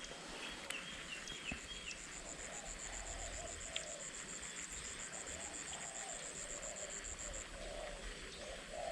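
Outdoor wildlife sounds: a high, evenly pulsed insect trill runs for about six seconds and then stops, with a few short bird chirps in the first two seconds and repeated lower calls through the rest.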